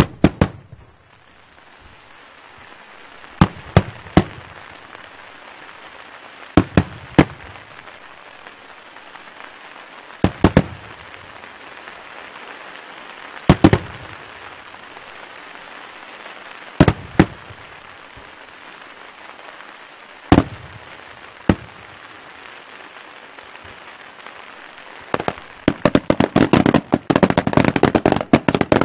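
Daytime aerial fireworks going off: sharp bangs of bursting shells every three seconds or so, single or in quick groups of two or three, over a steady hiss. Near the end a dense, rapid barrage of bangs and crackles starts.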